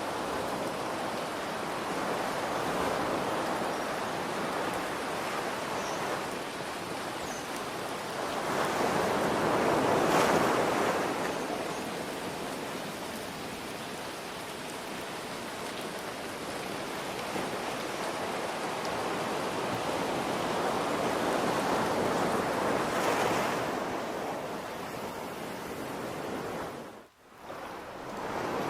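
Ocean surf washing in over a steady hiss of rain. Two bigger waves swell and fall away, one about a third of the way in and one about three-quarters through. The sound dips out briefly near the end.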